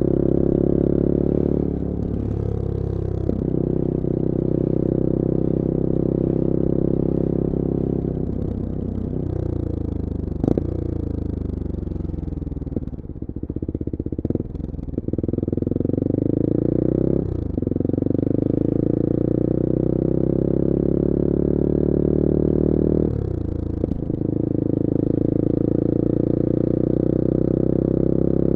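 Bullit Hero 250's CF Moto 250cc four-stroke engine heard from onboard on the move. Its revs fall away in the middle as the bike slows, then rise again as it pulls away, with two upshifts in the second half, each a sudden drop in pitch. A single sharp click comes about ten seconds in.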